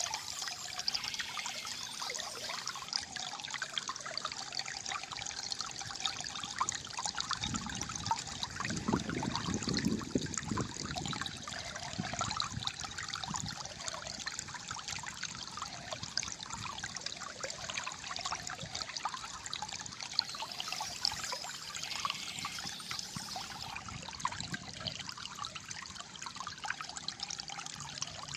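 Calm flowing water trickling and gurgling steadily, with a deeper gurgle swelling up about a third of the way through.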